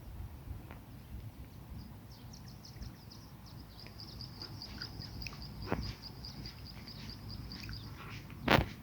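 A bird calling outdoors in a fast, even series of high chirps, about five a second, with a single sharp knock near the end.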